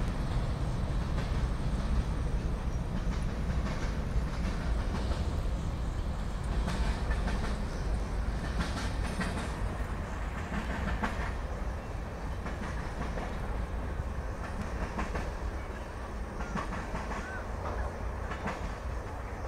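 Freight train's tank cars rolling past: a steady low rumble with the clacking of wheels over the rail joints, easing slightly near the end.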